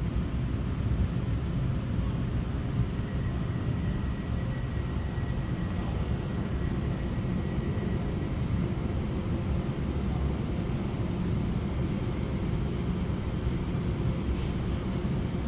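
Steady running noise inside a TRA EMU900 electric multiple unit under way: a continuous low rumble of wheels on track and carriage noise. A faint high thin whine joins about two-thirds of the way through.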